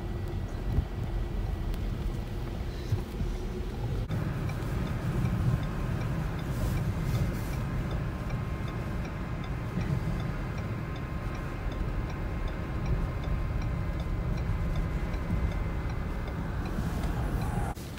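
Steady low rumble of wind and vehicle noise, with a faint, regular light ticking that starts about four seconds in and keeps an even pace.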